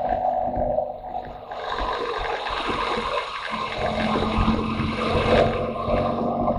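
Motorcycle engine running under way, mixed with rushing wind noise. The engine note drops briefly about a second in, then picks up again.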